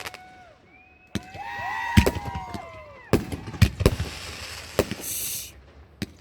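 Fireworks going off: a string of sharp bangs, with several whistles sliding up and down in pitch around one to three seconds in, and a short burst of high crackling about five seconds in.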